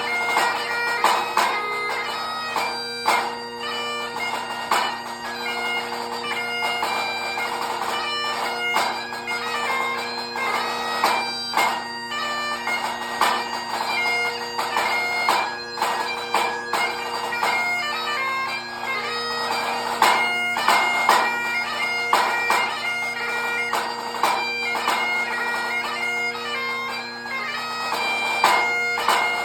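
Great Highland bagpipe playing a march-strathspey-reel tune over its steady drones, with a pipe-band snare drum beating crisp strokes and rolls along with it.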